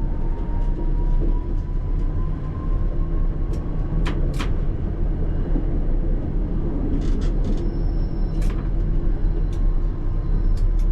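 ČKD Tatra T3R tram running on its rails: a steady low rumble with a faint whine that rises slowly in pitch over the first four seconds, a few sharp clicks about four seconds in, and a brief high squeal about two-thirds of the way through.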